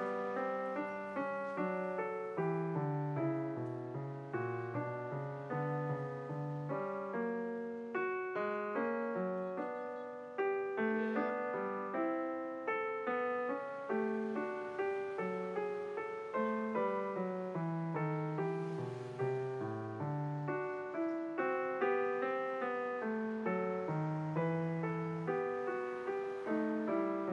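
Background solo piano music: a steady, flowing run of notes.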